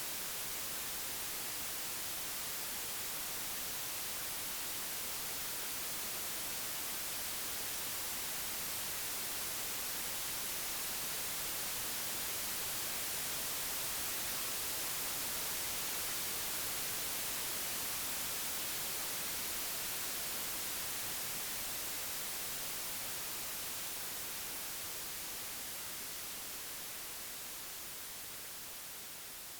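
Computer-generated white noise: a steady, even hiss, unfiltered and with no samples. Its level swells slightly toward the middle and then fades gradually over the last several seconds.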